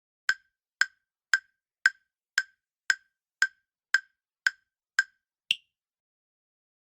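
Countdown timer sound effect: ten sharp, clock-like ticks, about two a second, then one higher-pitched tick at the end.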